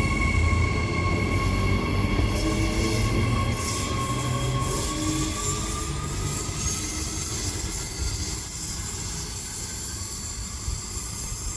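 Electric passenger train moving through the station: a heavy low rumble with steady high-pitched squealing tones above it, slowly getting quieter.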